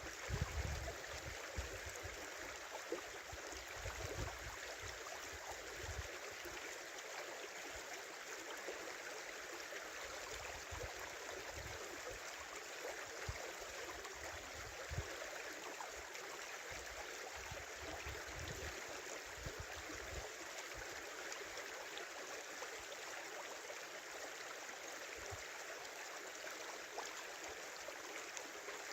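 Small river flowing: a steady rushing and babbling of water running over stones. Occasional low rumbles sit underneath in the first few seconds and again midway.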